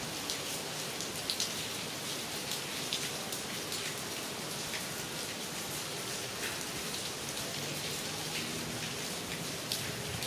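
Steady rain falling, with many separate drops striking close by as sharp ticks over an even hiss.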